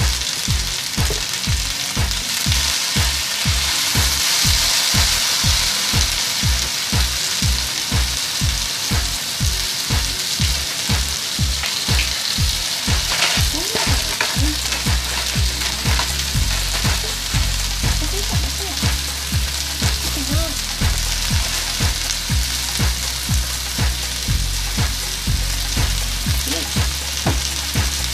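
Sliced okra and onions sizzling steadily in hot oil in a wok as they stir-fry. A steady low beat runs underneath and changes its pattern about halfway through.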